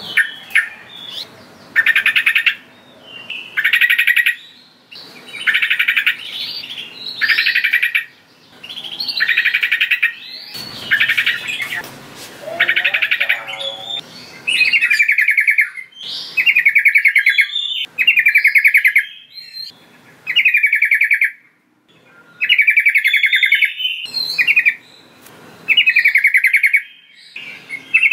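Yellow-vented bulbul (trucukan) singing repeatedly: short, rapid bubbly phrases of about a second each, coming every second or two, with brief chirps in between.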